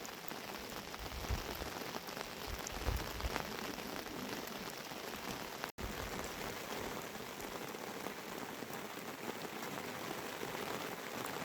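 Rain falling steadily, a dense even patter, with a few low thumps in the first few seconds. The sound cuts out for an instant a little past halfway.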